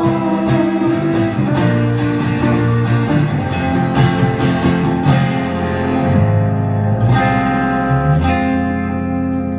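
Live band playing an instrumental passage led by guitar, strummed and picked chords without vocals. A chord rings out near the end.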